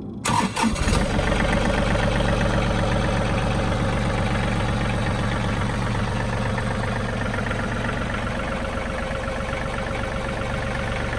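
A John Deere 3032E compact tractor's three-cylinder diesel engine is started: it cranks briefly, catches within about a second and then idles steadily.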